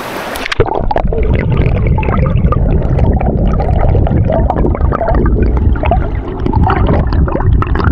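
Rushing, gurgling water of a mountain stream or small waterfall close to the microphone, a loud steady rush with a deep rumble underneath.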